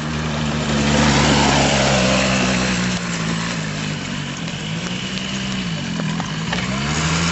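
Go-kart's Suzuki RG125 Gamma two-stroke single-cylinder engine running, loudest about a second or two in, then its revs rising and falling several times near the end.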